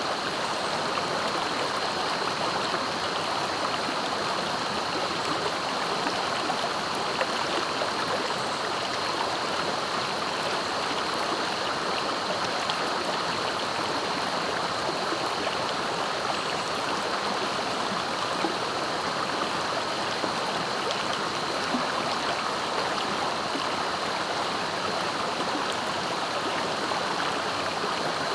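Swift, clear river flowing, a steady, unbroken rush of water.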